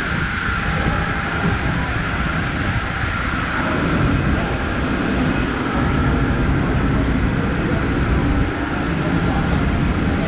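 Steady mechanical rumble of airport apron machinery, with a constant high-pitched whine over it.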